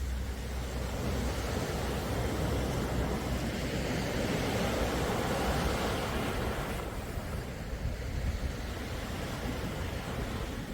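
Sea waves: a steady wash of surf over a low rumble, swelling to a peak about halfway through and then falling back.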